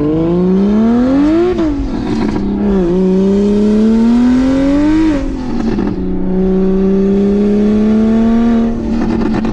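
BMW 335i's single-turbo N54 inline-six accelerating hard through the gears. The engine note climbs and drops at an upshift about 1.5 s in, climbs again to another shift about 5 s in, then pulls more slowly in a higher gear before easing off near the end.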